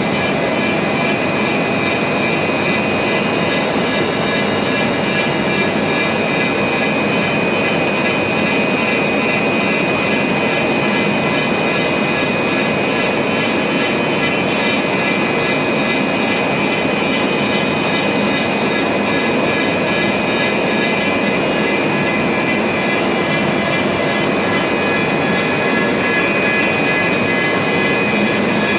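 CNC router spindle running steadily as it cuts CON Pearl polypropylene channel board: a constant rushing noise with a steady high whine.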